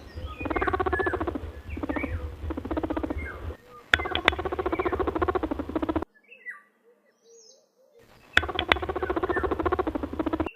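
A rabbit making a rapid, buzzing, squeaky call in three stretches of two to three seconds each, with a near-silent gap of about two seconds near the middle.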